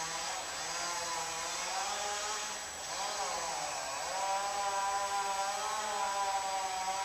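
A small engine running steadily, its pitch wavering up and down a couple of times.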